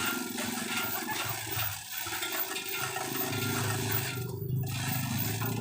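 Vehicle engines running steadily, with road noise.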